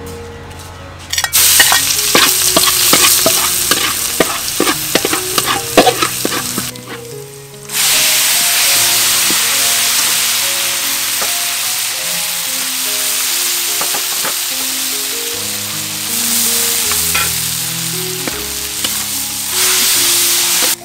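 Chopped tomatoes, shallots and pineapple sizzling loudly in a hot oiled metal pan as they are stirred: the base of a sweet-and-sour sauce being fried. It starts about a second in with crackling and many clicks. It breaks off briefly around seven seconds, then settles into a steady sizzle.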